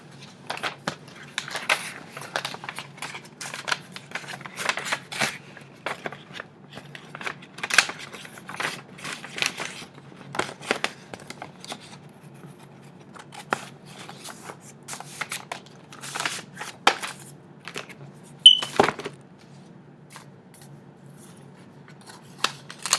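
Paper rustling and crinkling as greeting cards and their envelopes are handled: a card slid back into its envelope and the next one taken up. It comes as a run of short crisp rustles and snaps, the sharpest about three-quarters of the way through.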